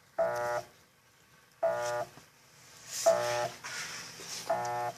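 Electrolux Turbo Limpeza 7.5 washing machine motor humming in short, even pulses about every one and a half seconds during agitation, four times. The machine beats to one side only, which the repairman takes to be a failing motor capacitor, though he is not yet certain.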